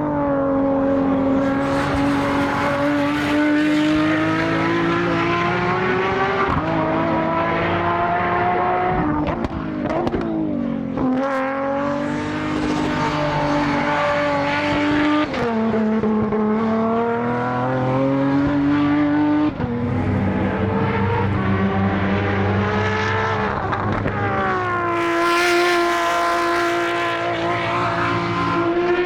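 Highly tuned time attack race car's engine at racing pace, its pitch climbing steadily under acceleration and dropping suddenly at gear changes, several times over.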